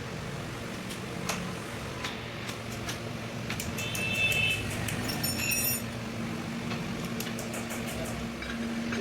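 Metal tools and parts clinking and tapping while a tractor gearbox is worked on, with a short ringing metallic clink about four to six seconds in, over a steady low hum.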